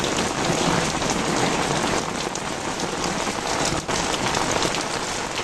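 Heavy rain pouring down steadily, with dense drops spattering on surfaces.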